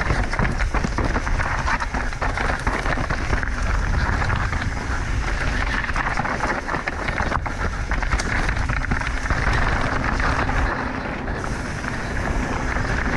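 Mountain bike running down a dirt trail: steady tyre noise over dirt and rocks, with frequent small rattles and clicks from the bike and wind buffeting the microphone.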